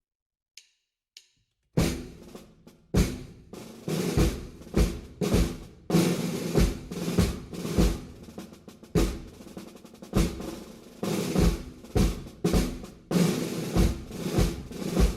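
Band percussion playing a procession drum pattern: snare drum rolls over steady bass drum beats. It starts about two seconds in, after near silence with two faint clicks.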